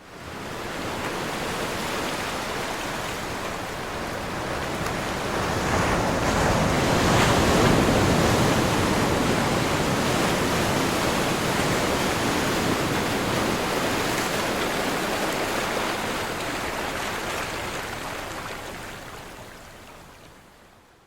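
Ocean waves surging and washing in a steady rushing roar, swelling to its loudest about a third of the way in, then slowly fading away near the end.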